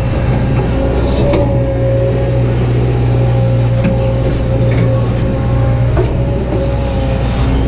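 Kobelco SK200-8 hydraulic excavator running steadily: a diesel engine drone with a steady hydraulic whine over it, and a few light knocks.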